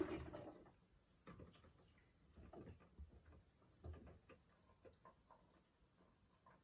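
Miele W3985 washing machine mid-cycle: the sloshing water noise dies away within the first second, and then only faint scattered knocks and drips are left while the drum pauses.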